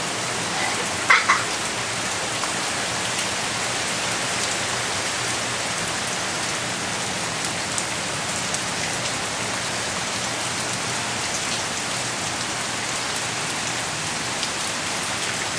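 Heavy hurricane rain falling steadily in a continuous downpour.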